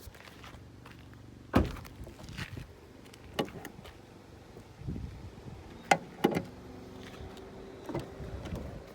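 Several sharp clicks and knocks from the interior of a Honda Accord being handled, the loudest a little over a second in and a close pair about six seconds in, over a low steady hum.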